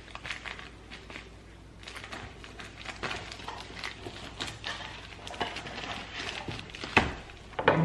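A small plastic package being handled and opened: scattered crinkles and light clicks, with a sharper click about seven seconds in.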